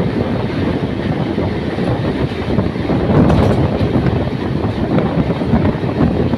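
Express train running on the rails: a loud, steady rumble of wheels and carriages.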